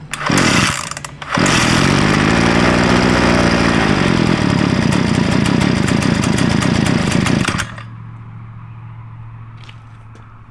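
Small 49cc two-stroke pocket-bike engine catching briefly, cutting out, then running revved and wavering for about six seconds before falling suddenly to a much quieter low steady hum. It is an engine that will not keep running on its own, which the owner blames on the carburettor.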